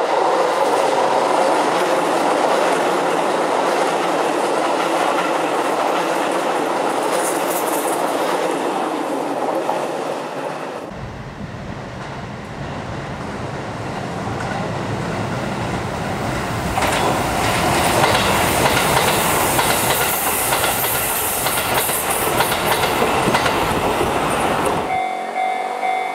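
Shin-Keisei N800 series electric train passing close by, wheels clattering over the rail joints. After a cut, a second N800 train runs by with wind rumbling on the microphone, its noise building up. Near the end a ringing bell tone starts.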